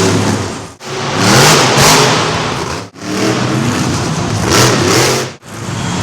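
Monster truck engines revving hard, rising and falling in pitch with loud surges, in several short clips that cut off abruptly.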